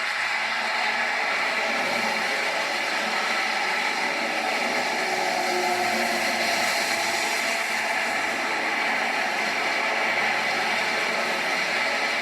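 Steady rushing noise of an Airbus A340 jet airliner, with faint steady whining tones mixed in.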